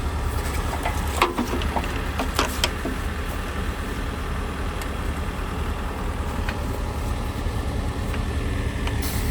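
Logging truck's diesel engine idling steadily as a low hum, with a few sharp clicks and knocks between about one and three seconds in.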